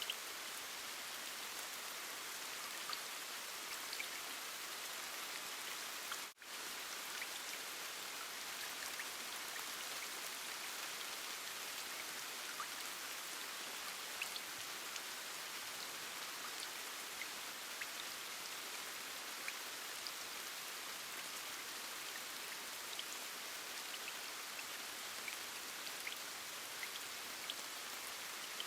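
Steady rain with scattered close drops ticking, a hiss weighted toward the treble. It cuts out for a split second about six seconds in, likely where the rain loop joins.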